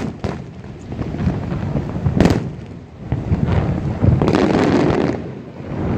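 Aerial fireworks bursting: a sharp bang right at the start, another about two seconds in, and a longer stretch of rolling noise from about four to five seconds, with wind on the microphone.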